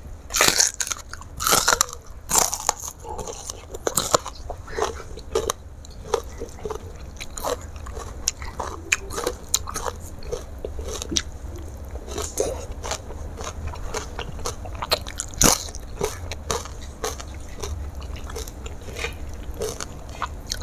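A person biting and chewing crunchy food, a quick run of crisp crunches with a few louder bites in the first few seconds and another about fifteen seconds in.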